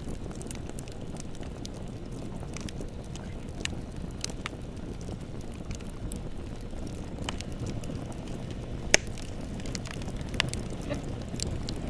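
Bonfire burning: a steady low rumble with scattered crackles and pops from the burning wood, one sharp pop about nine seconds in being the loudest.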